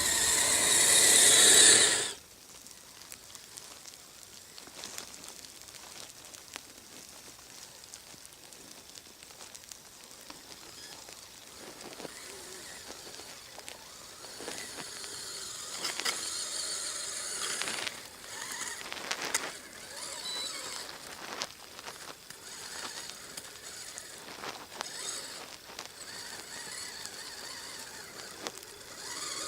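Kyosho Blizzard SR radio-controlled snow cat's electric drive and tracks running through snow, loud for about the first two seconds and then cutting off sharply, followed by quieter, uneven running with scattered clicks and crackles.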